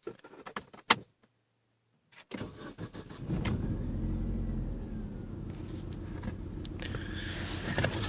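Brilliance car's engine being started after repair and nine years of standing: a few sharp clicks, a brief faint hum, then the starter cranks a little over two seconds in and the engine catches within a second and settles into a steady idle.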